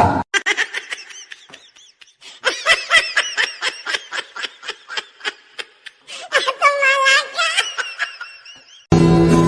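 High-pitched human laughter in quick repeated bursts, breaking into longer drawn-out squeals near the middle. Music starts abruptly near the end.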